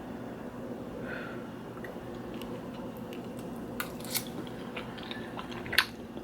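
A person eating pasta: a few sharp clicks of a fork against the dish, the loudest near the end, with soft chewing over a steady low hum.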